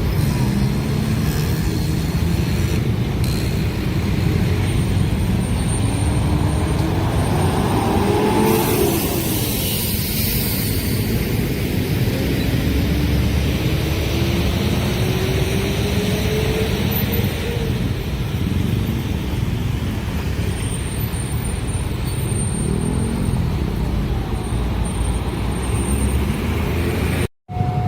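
Road traffic at a railway level crossing: motor vehicle engines running and pulling away, several rising in pitch as they accelerate. The sound cuts out for a moment near the end.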